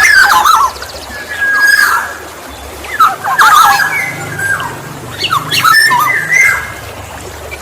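Black-naped oriole calling in several bursts of sweeping, fluty whistles mixed with harsher squawking notes.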